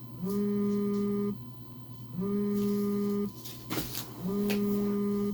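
Phone call ringing tone: a low electronic beep about a second long, repeated three times with a gap of about a second between them. A brief rustle or click falls between the second and third rings.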